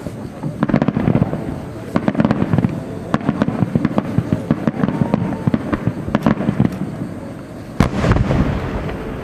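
Aerial fireworks bursting in rapid succession, a dense run of crackling bangs over a low rumble. A heavy boom lands near the end.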